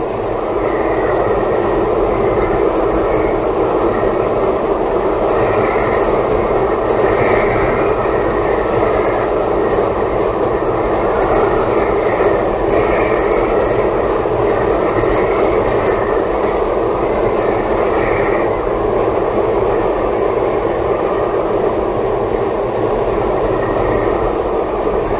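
Steady road and wind noise inside a Toyota Tank compact minivan's cabin, driving at highway speed in a very strong wind.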